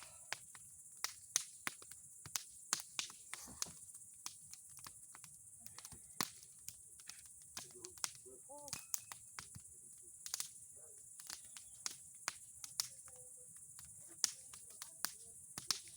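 Bonfire crackling: irregular sharp pops and snaps from burning boards and pine cones, over a steady high hiss.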